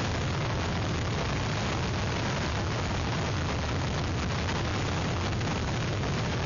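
Hurricane wind buffeting the microphone: a steady, dense noise with a heavy low rumble that doesn't let up.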